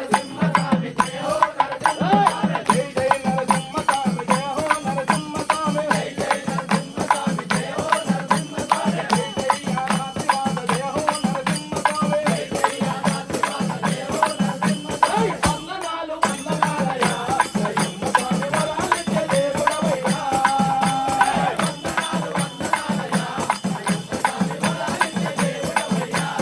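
Devotional bhajan music: a melody sung over a fast, steady percussion beat with jingling rattles. The music breaks off briefly a little past the middle.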